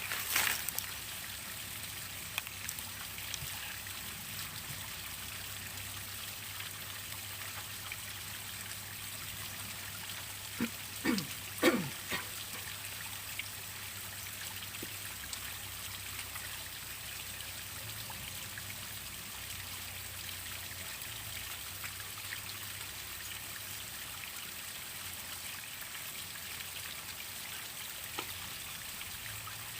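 Steady rush and splash of falling and running water from a waterfall, with a few short, sharp sounds with a falling pitch about eleven to twelve seconds in.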